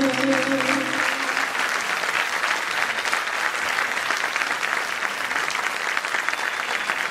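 Audience applauding. A held final note of voice and instruments dies away about a second in, and the clapping carries on steadily.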